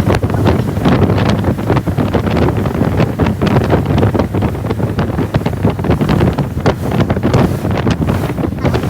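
Strong wind buffeting the microphone in loud, gusty rushes over a steady low rumble.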